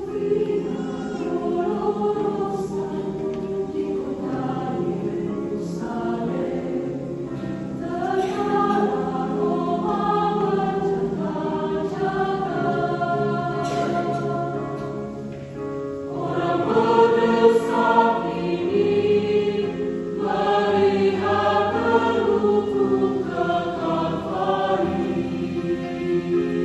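Church choir singing a slow hymn in several voice parts, with sustained chords that swell louder about two-thirds of the way through.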